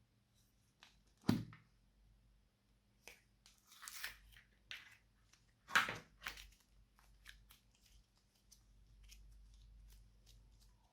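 Slime being mixed and squeezed by hand: irregular sticky crackles, pops and squelches. Two louder squelches come about a second in and near the middle.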